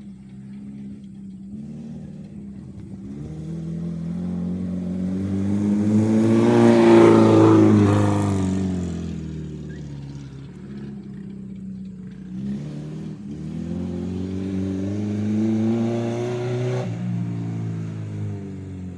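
Acura RSX's four-cylinder engine under load on a dirt track: the revs climb to a loud peak about seven seconds in and fall away, then climb again and drop off suddenly near the end.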